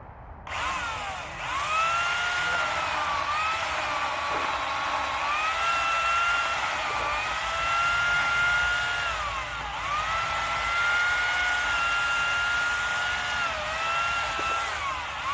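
Electric saw cutting firewood. A high, steady motor whine starts about half a second in, and its pitch sags and recovers several times as the blade takes the load of the wood.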